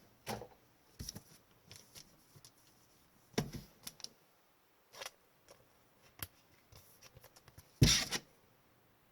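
Trading cards and their packaging being handled on a table: scattered clicks, rustles and slides, with a louder thump about eight seconds in.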